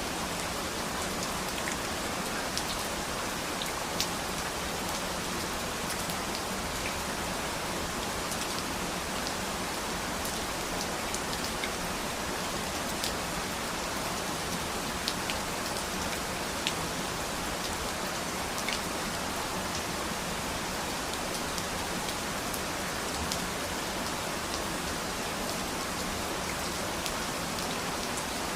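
Steady rain falling, an even hiss with scattered sharper drop ticks landing on a surface.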